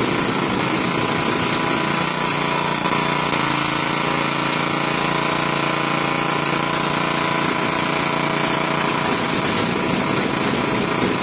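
An engine or motor running steadily at an even speed, a dense hum of many held tones over a rattling noise.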